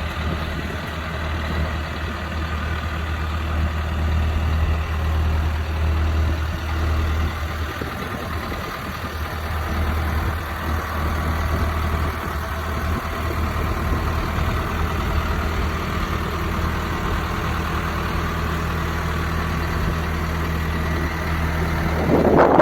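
John Deere 6430 farm tractor's diesel engine idling steadily.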